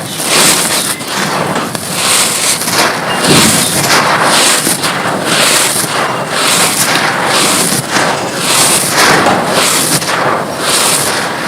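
Dry, gritty mud chunks crumbling and crunching: a dense crackle that swells in repeated surges, a little more than one a second.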